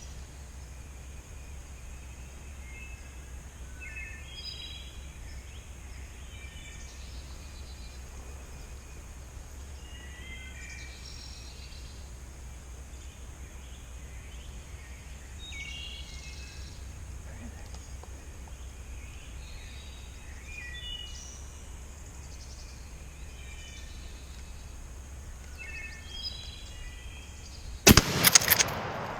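Songbirds chirping on and off, then near the end one very loud shotgun blast with a short echo trailing off: a hunter's shot at a wild turkey.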